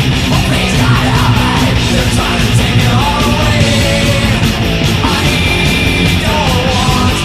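Loud heavy metal music: distorted electric guitars, bass and drums playing continuously.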